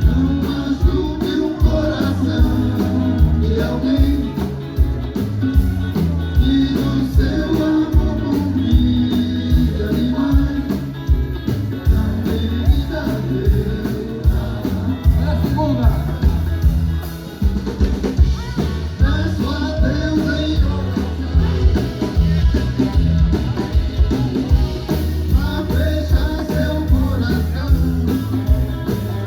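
Live band playing a rock-style song: a singer over electric guitar, bass and drum kit, with a steady beat.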